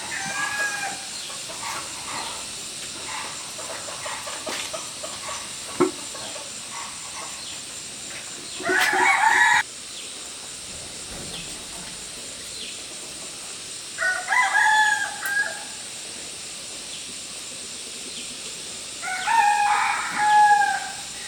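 Rooster crowing three times, each crow lasting one to two seconds, several seconds apart.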